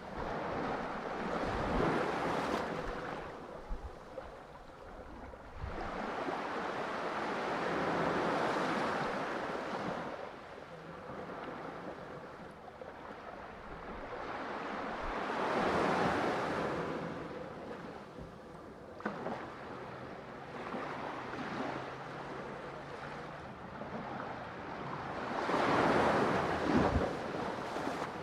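Ocean waves breaking and washing on a shore, the surf swelling and ebbing about four times, loudest near the end.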